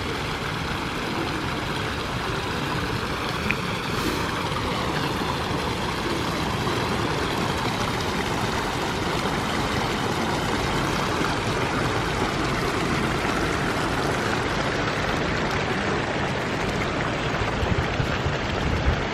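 Steady rushing noise of a vehicle on the move, with no clear engine note.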